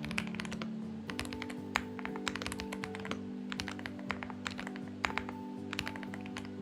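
Typing on a Xinmeng X98 mechanical keyboard: irregular bursts of keystroke clicks. Soft background music with sustained chords plays underneath.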